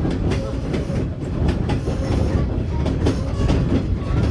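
Narrow-gauge train rolling along the track, heard from a passenger car: a steady rumble with frequent clicks from the wheels and rails and a faint thin wheel squeal at times.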